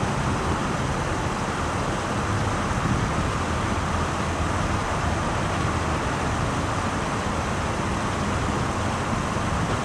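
A car driving at a steady speed: even road and wind noise over a low engine rumble, with no change in pace.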